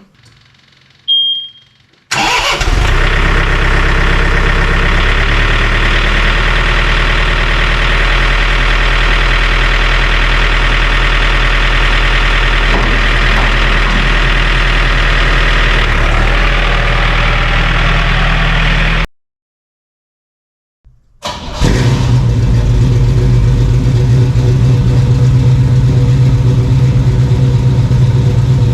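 Cold starts of a tractor and a truck engine, cut back to back. After a short high beep about a second in, the first engine fires about two seconds in and runs steadily. After a brief cut, the second engine starts about 21 seconds in and runs on.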